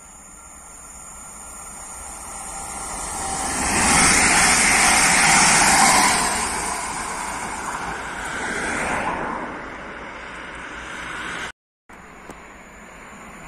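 Newag Impuls electric multiple unit passing at speed: a rising rush of wheels on rail and air that peaks about four to six seconds in, then fades as the train goes by. Near the end the sound cuts out for a moment, and a faint steady background follows.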